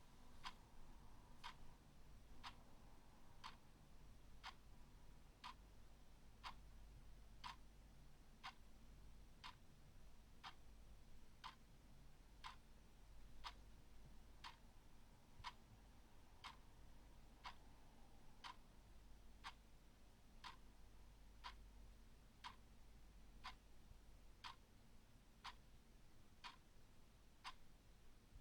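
A clock ticking faintly and evenly, about one tick a second.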